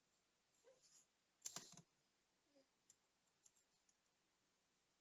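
Near silence broken by a short cluster of sharp clicks about a second and a half in, then a few faint ticks, from small parts or tools being handled.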